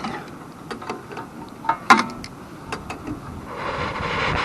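Needle-nose pliers working on the fuel-line clamp of a snowblower carburetor: a scatter of small metal clicks and ticks, the sharpest just before two seconds in. A soft rushing noise then swells and fades near the end.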